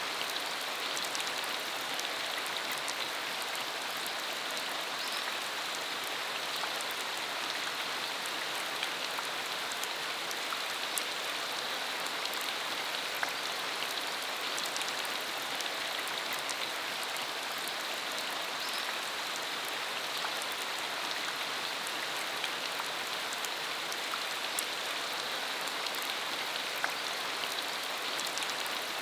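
Steady rain falling on a dirt country road, with many separate drops ticking sharply through the even hiss.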